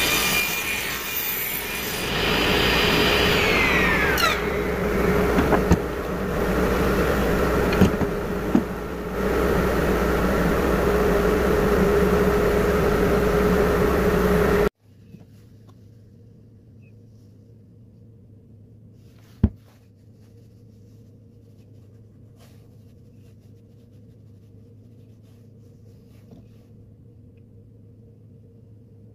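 Power tool cutting wood, loud and steady, with a whine that falls in pitch about four seconds in. About fifteen seconds in the noise stops abruptly, leaving a low steady hum and one sharp click.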